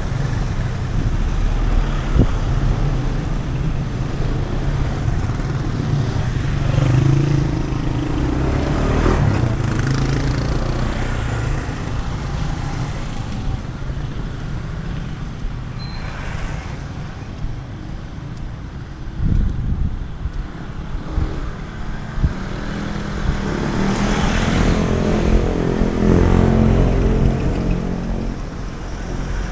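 Street traffic: a steady rumble of vehicles and motorcycles passing close by. Two louder engines go past, one about a quarter of the way in and one near the end, the second with its pitch rising as it accelerates.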